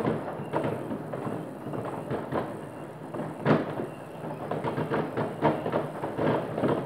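Many fireworks going off at once across the town at different distances: a continuous rattle of bangs and crackles, with one louder bang about three and a half seconds in.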